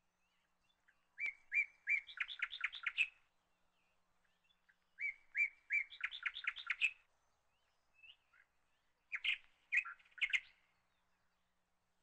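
A small songbird singing: the same phrase twice, a few clear notes running into a quick trill of chirps, then a shorter burst of chirps near the end.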